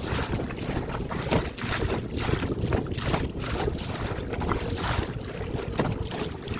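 Gusty wind buffeting the microphone, with choppy water lapping against the hull of a small drifting boat in irregular splashes.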